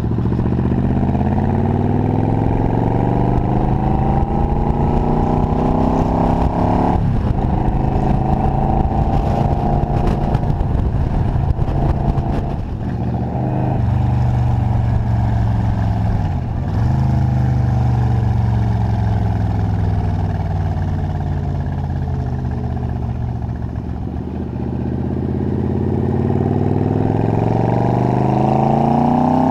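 Yamaha XVZ1300 Royal Star's V4 engine under way. The engine note climbs as the bike accelerates and drops sharply at upshifts about seven and fourteen seconds in. It eases lower through the middle and climbs again near the end.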